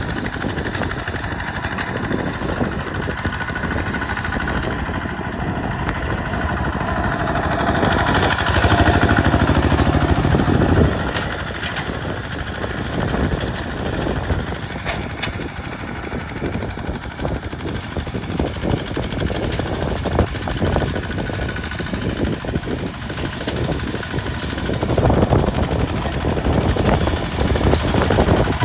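Kubota RT single-cylinder diesel engine on a walking tractor running steadily under load while plowing. It grows louder for a few seconds about eight seconds in and again near the end.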